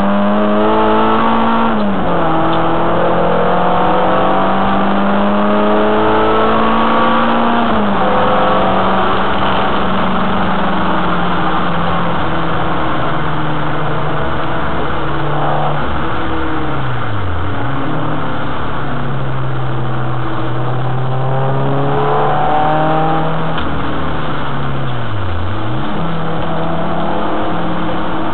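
Renault Clio 2 RS's four-cylinder engine under hard track driving, heard onboard: it revs up and drops in pitch at two upshifts in the first several seconds, then the revs fall away and dip sharply twice with lifts and downshifts before climbing again.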